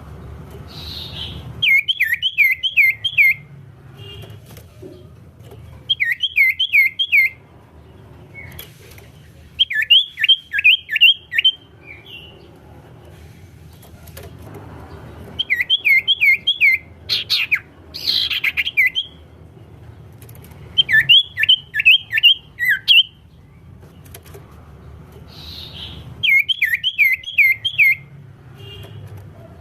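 A songbird singing in repeated short phrases of five or six quick, downward-slurred whistled notes, each phrase lasting about a second and a half and coming every four to five seconds, over a low steady hum.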